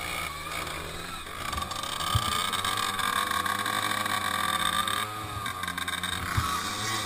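Small motorcycle engines running, revs rising and falling, with two sharp knocks, about two seconds in and again near the end.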